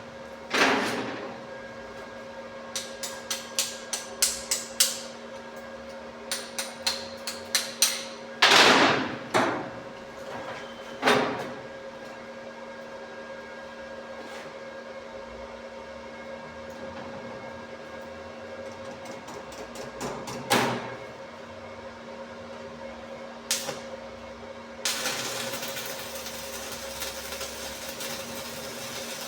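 Metal tapping and knocking on a padlock, in quick runs of light taps and several heavier single knocks, over a steady electrical hum. Near the end a steady hiss sets in.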